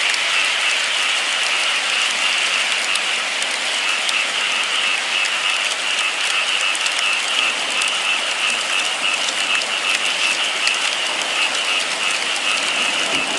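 Steady rain falling: an even hiss of many drops with scattered sharper drop ticks.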